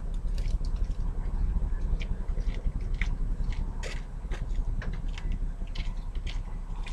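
Small objects being handled and wiped inside a car: scattered clicks, rustles and scrapes, over a steady low rumble.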